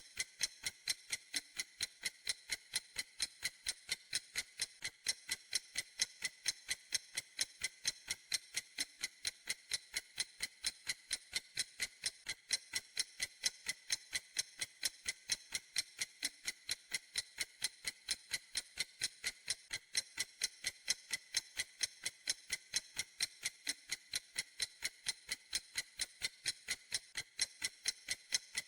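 Clock ticking steadily: an even run of crisp, high-pitched ticks, several a second, with no change in pace.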